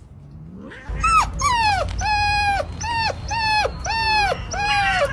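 A dog whining in a run of about seven high cries, each around half a second long and falling at the end, starting about a second in.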